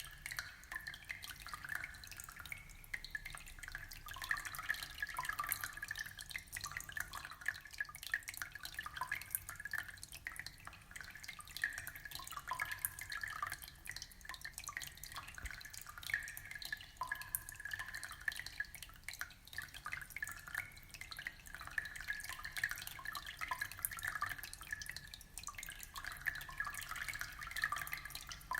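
Aquarium water bubbling and trickling steadily, a dense patter of small drips and splashes.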